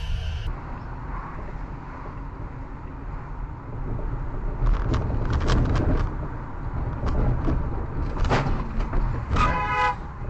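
Car driving, with steady low engine and road rumble as picked up by a dashcam. From about four seconds in come scattered knocks and clicks, and near the end a short pitched tone sounds.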